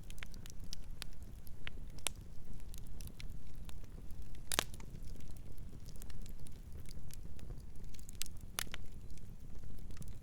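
Campfire crackling, with irregular sharp pops and snaps over a low steady rumble; the loudest pop comes about halfway through.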